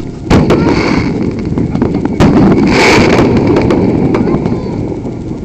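Fireworks going off: two loud bangs, about a third of a second in and just after two seconds, among scattered smaller pops and crackles, over steady low background noise.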